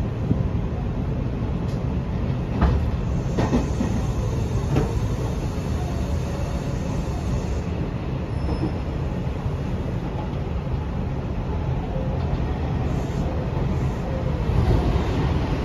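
Running noise inside a Hanshin 1000 series electric train car at speed: a steady rumble of wheels on rail. The wheels click sharply over rail joints a few times in the first five seconds, and the noise grows a little louder near the end.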